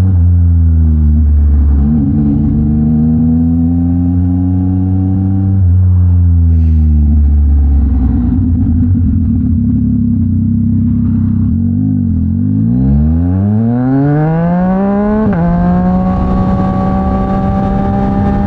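Yamaha MT-09's three-cylinder engine through a Mivv X-M50 aftermarket exhaust under way: the note falls, rises, then drops back and holds steady. About twelve seconds in it revs up hard through one gear, snaps down at a quick upshift about fifteen seconds in, and carries on at a steady higher note.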